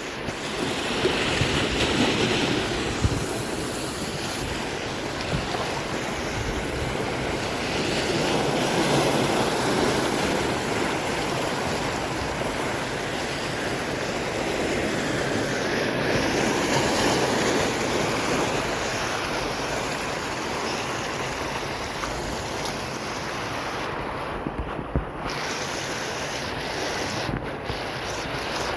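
Heavy ocean swell waves breaking and washing in, the roar swelling and easing in slow surges about every seven or eight seconds.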